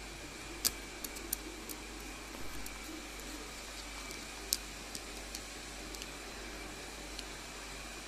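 Caique parrot nibbling cooked corn: scattered sharp little clicks of its beak on the kernels, over a steady hiss.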